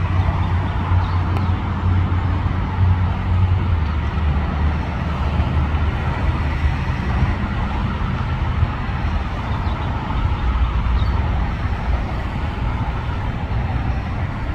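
Steady low rumble of a diesel freight train running close by, its engine hum continuous.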